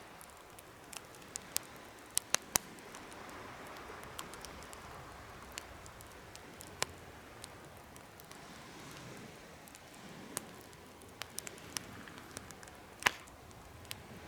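Wood campfire burning in a homemade fire stand: a soft steady hiss with irregular sharp crackles and pops, a few close together about two seconds in and the loudest pop near the end.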